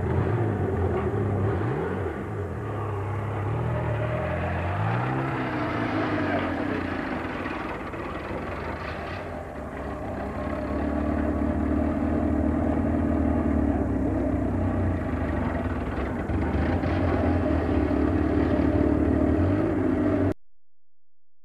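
Fiat 127 four-cylinder engine running on a homemade trike, its pitch rising and falling a few seconds in, then running steadily. The sound cuts off suddenly near the end.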